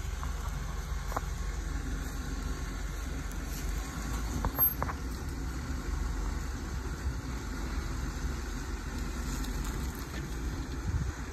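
Jeep Wrangler's engine running steadily at low revs as it crawls slowly over the rocky trail. A couple of brief clicks come about four and a half seconds in.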